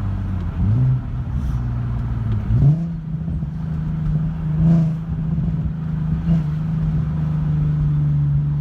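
Nissan Z's V6 running through a full ISR aftermarket exhaust with a new ISR Y-pipe while driving. The engine note rises and falls a couple of times in the first three seconds, then settles into a steady drone with two brief swells.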